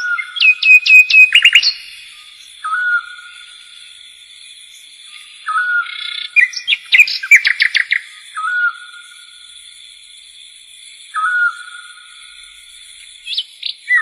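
Songbirds chirping: a short whistled call that comes back roughly every three seconds, with quick runs of rapid chirps about a second in and again around the seventh second.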